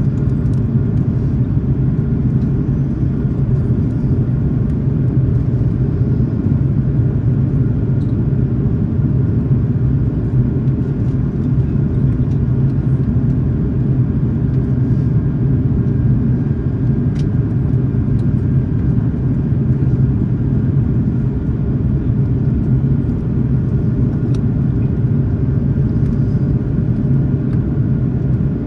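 Steady cabin rumble of an Airbus A330-300 climbing: jet engine and airflow noise heard from inside the cabin, a deep even drone with a faint higher hum above it.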